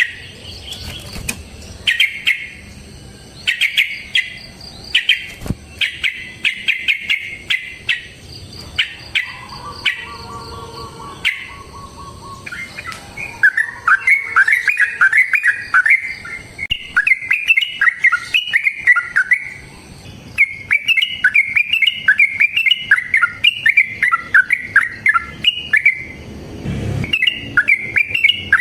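Yellow-vented bulbuls (trucukan) calling: first bursts of quick, clipped chattering notes, then from about halfway a long, unbroken run of bubbling, rising and falling song phrases, the fighting "long roll" used to lure other bulbuls into singing.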